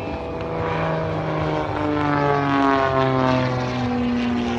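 A propeller airplane's engine flying past. Its note drops in pitch as it goes by, loudest a little past halfway, then holds steady at the lower pitch as it moves away.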